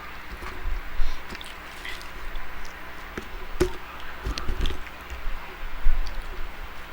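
Close-miked mukbang eating sounds: chewing and soft wet squishes, with scattered small clicks.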